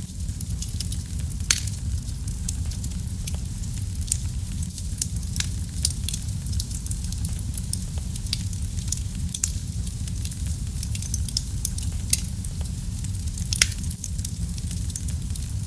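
Fire in a fireplace crackling: a steady low rumble of flames under irregular sharp pops and snaps, with a few louder pops scattered through.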